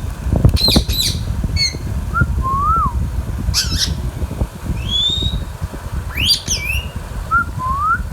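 Indian ringneck parakeet calling: short whistles that slide upward, broken by three bursts of sharp squawks, the first near the start, one about three and a half seconds in and one about six seconds in. A steady low rumble runs underneath.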